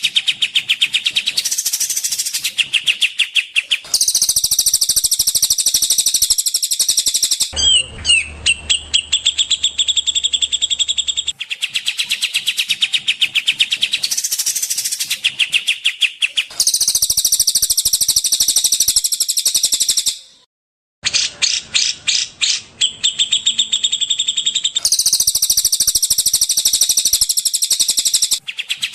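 Songbird tutor recording (masteran) of fast, high-pitched trills and chattering whistles, spliced into blocks of a few seconds that switch abruptly from one song pattern to another. The recording drops out briefly about twenty seconds in.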